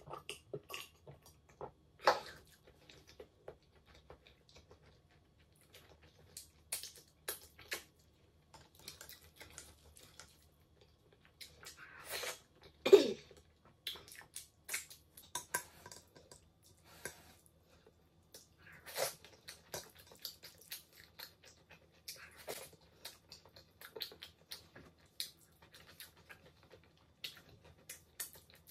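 Close-miked eating sounds: irregular wet chewing, lip smacks and finger-licking sucks from rice and pasta with stew eaten by hand. One louder mouth sound comes about halfway through.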